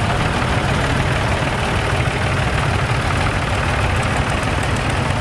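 Vintage tractor engines running steadily at low revs.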